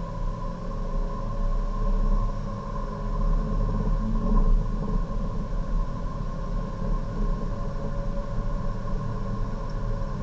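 Race car's engine heard from inside the cabin under full-throttle acceleration, with one upshift from third to fourth gear and the revs climbing again afterwards. It is a steady, loud rumble.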